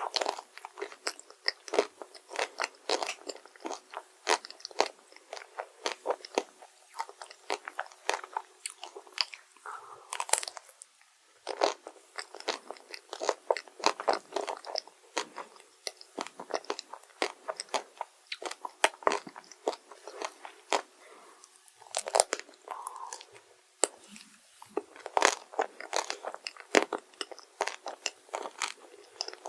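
Close-miked biting and chewing of crunchy chocolate desserts: a dense run of crisp crunches and crackles, pausing briefly twice.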